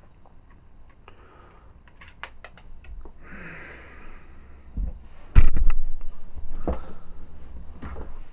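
Clicks and light rattles of small plastic parts of a transforming robot figure being handled and fitted together, with a loud knock about five and a half seconds in.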